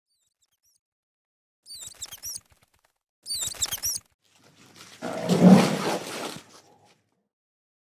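Fruit bat (flying fox) giving two short bursts of high-pitched squeaking chatter. Then a white rhinoceros gives a louder, rough, low call lasting about two seconds.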